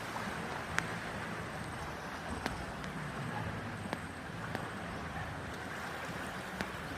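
Wind on the microphone over a steady low rumble, with a few sharp clicks scattered through.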